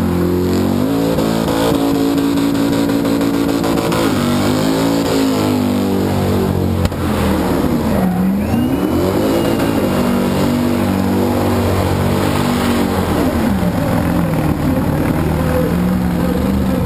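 A burnout car's engine held at high revs with its rear tyres spinning on the burnout pad. The revs drop and climb back several times, falling lowest about eight seconds in.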